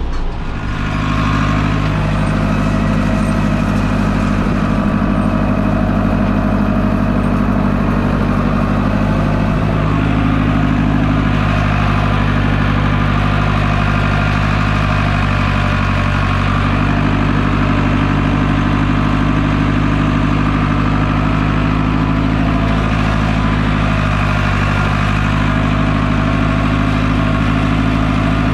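Tractor engine running steadily under load, driving a round baler through the hay, with slight shifts in pitch now and then.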